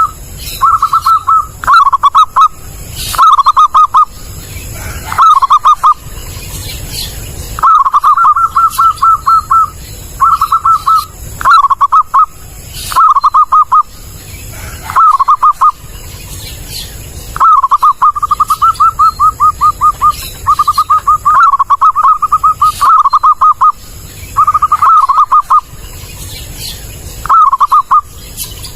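Zebra dove (perkutut) cooing loudly, in about fifteen phrases of quick staccato notes with short pauses between them. This is a recorded master song of the kind played to lure wild zebra doves.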